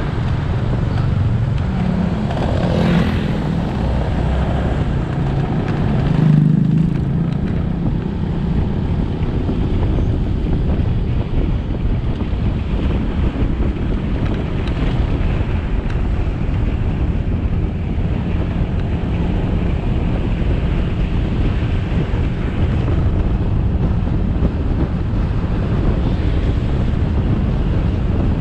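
Motorcycle riding along a road: its engine running steadily under wind rushing over the camera's microphone and road noise, with a brief louder swell about six seconds in.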